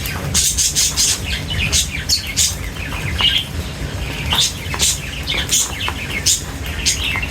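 Small birds chirping in many quick, short, high calls that overlap, with a steady low rumble beneath.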